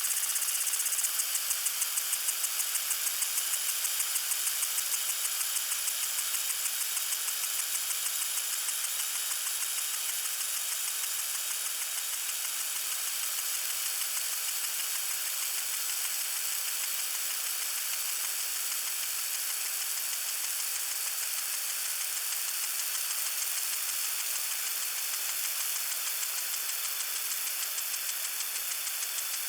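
Lawn sprinkler spraying water: a steady hiss with a fast, even ticking that is clearest in the first several seconds and then fades into the hiss.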